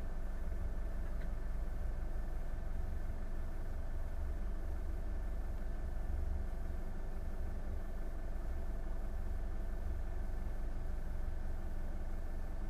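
A boat's engine running steadily, a constant low drone that does not change speed.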